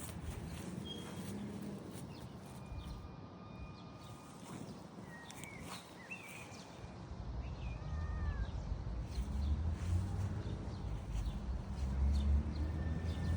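Outdoor ambience with scattered short bird chirps, and a low rumble that grows louder in the second half.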